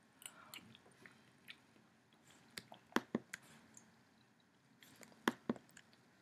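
Close-up eating sounds: a spoonful of chicken soup chewed with wet mouth clicks and smacks, coming in two louder clusters about three seconds in and near the end.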